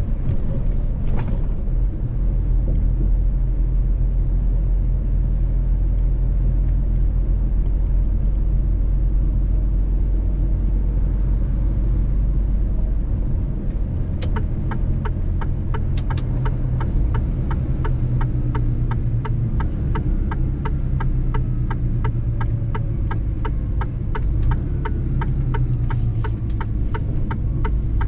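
Mercedes-Benz truck on the move: a steady low engine and road rumble. About halfway through, a regular ticking starts, about three ticks a second, and stops just before the end.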